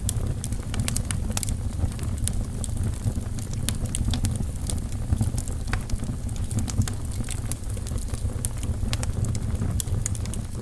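Wood fire burning in a fireplace: logs crackling with many irregular sharp pops over a steady low rumble of the flames.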